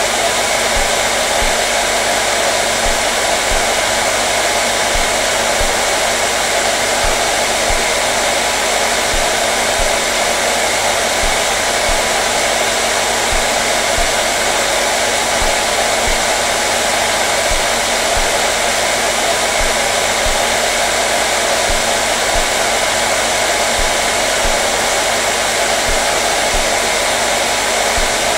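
Hair dryer running steadily: an even, unchanging whooshing rush of air with a faint motor hum underneath.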